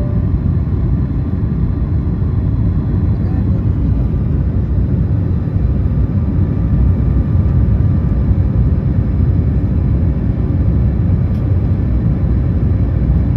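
Airliner cabin noise in flight: a steady, loud low rush of engines and airflow heard from inside the cabin.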